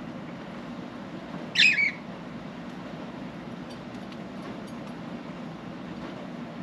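A budgerigar gives one short call in two quick parts about a second and a half in, over a steady low rumble.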